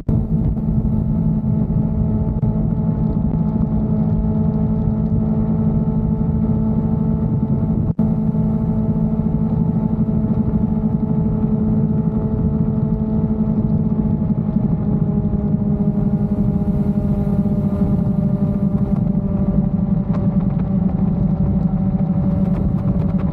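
Motorcycle engine running steadily while riding, its note slowly dropping in pitch through the second half as the bike slows. There is a brief dropout in the sound about eight seconds in.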